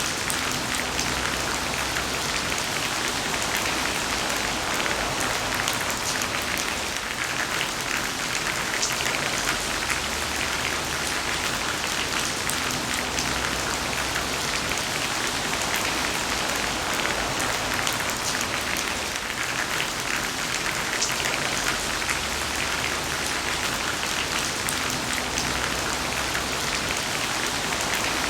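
Heavy rain falling steadily: a dense, even hiss of countless drops, with individual drop ticks standing out.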